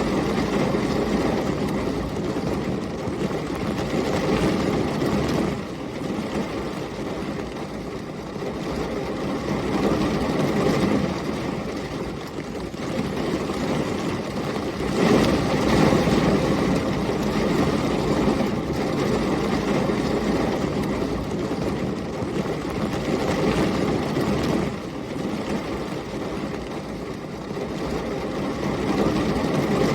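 Heavy rain and storm wind: a steady low roar that swells and eases every few seconds, loudest about fifteen seconds in.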